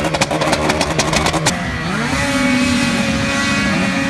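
Several two-stroke race snowmobiles running on the track at once, their engine pitches rising and falling as they rev and pass. A rapid run of clicks or rattles sits over them in the first second and a half.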